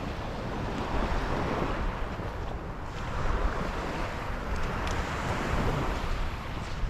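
Sea surf breaking and washing up the beach in slow swells, with wind buffeting the microphone.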